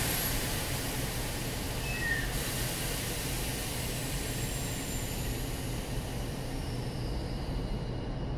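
Keikyu 1500-series commuter car standing at a platform with its doors open: a steady low hum from the car under a hiss of air that drops about two seconds in and stops near the end. Faint falling whines sound in the background.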